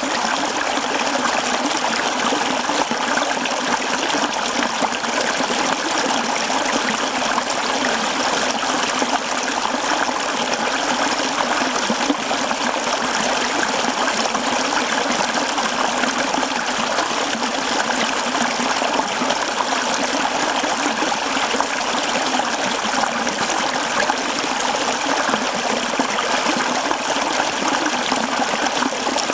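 A mountain stream running steadily over rocks, a continuous rushing and trickling of water with no breaks.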